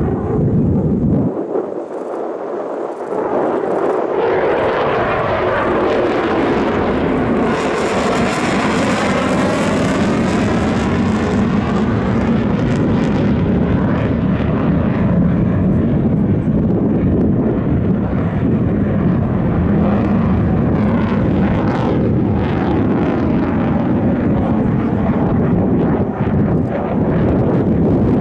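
Display aircraft engine roaring loudly on a pass, with a sweeping whoosh about a third of the way through as it goes by.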